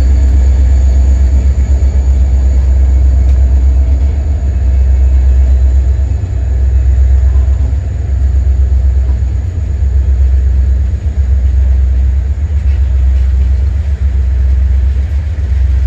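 Diesel freight train passing: a loud, steady deep rumble of the locomotives and rolling cars.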